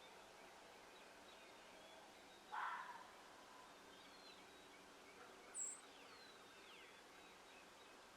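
An unidentified animal giving one short, noisy call about two and a half seconds in, over a faint outdoor background. A brief, very high chirp follows near the middle, with faint falling bird whistles.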